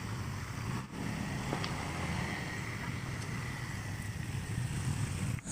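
Truck engine running steadily under way, a low rumble with a faint high whine over it for a couple of seconds.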